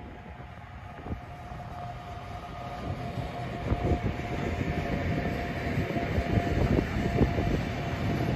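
Freight train of covered wagons rolling past behind an electric locomotive: a rumble that grows louder, with wheels clacking over rail joints thickly from about three seconds in as the wagons pass close, and a steady whine throughout.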